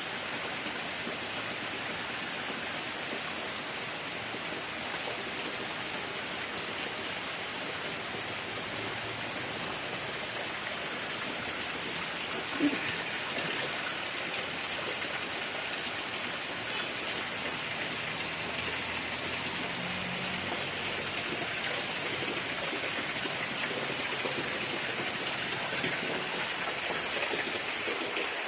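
Steady rain falling: an even hiss with a few scattered sharper drips.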